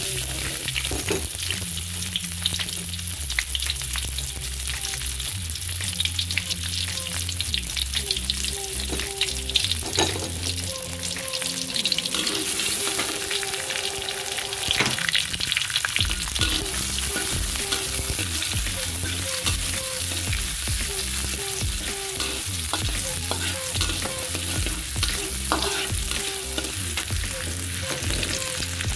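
Sliced red onion and garlic sizzling steadily in hot oil in a metal wok, with the scrapes and light clicks of a stainless steel spatula stirring them across the pan.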